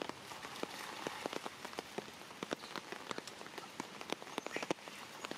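Rain falling on shallow floodwater: a steady hiss with many separate drops striking the water as sharp ticks at irregular intervals.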